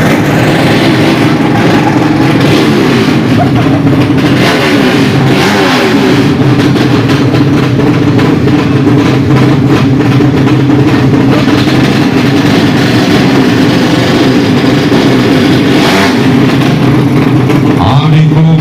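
Racing motorcycle engines revving loudly and continuously, several at once, their pitch climbing and falling with the throttle.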